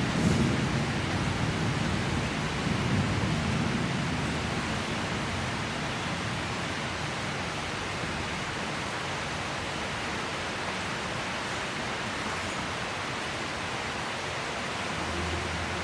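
Steady rain of a tropical rainstorm, an even hiss, with the low rumble of thunder dying away over the first few seconds.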